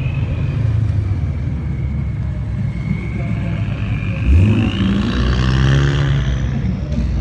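Ford Mustang doing a burnout: the engine is held at high revs, with a sharp rev rise about four seconds in. A high wavering squeal from the spinning tyres runs over it.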